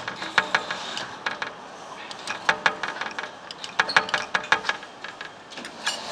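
Claw machine being played: runs of sharp mechanical clicks and ratcheting from the machine's controls and gantry, in several short bursts over a steady arcade hum.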